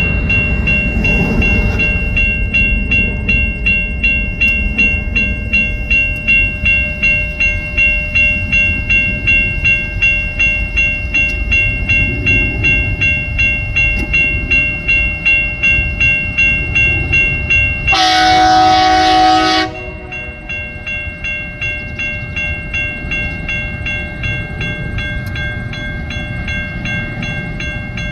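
Level crossing warning bells ringing in a fast, even pulse over the low rumble of a TasRail TR class diesel locomotive hauling empty coal wagons past. About two-thirds of the way through, the locomotive sounds its horn once, a chord held for under two seconds, after which the bells carry on quieter.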